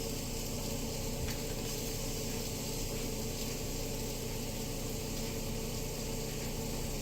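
Potatoes and onions frying in a pan, a steady sizzling hiss over a constant low hum.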